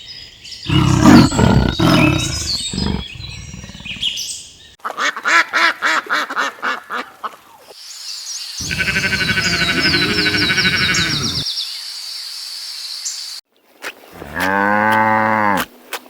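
A series of short animal clips with abrupt cuts between them: birds chirping, then several pitched animal calls, the last a strong call that dips and rises in pitch.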